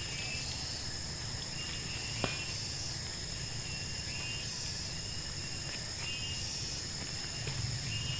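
Night chorus of insects in tropical forest: a steady high-pitched shrill drone, with short chirping notes repeating every second or so and a single sharp click about two seconds in.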